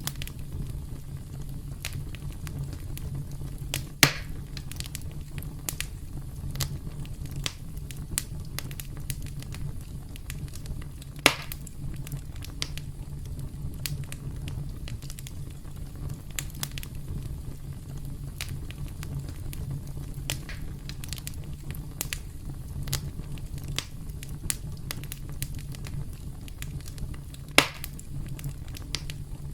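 Campfire crackling: a steady low rumble of burning with frequent small crackles, and three louder sharp pops about 4, 11 and 27 seconds in.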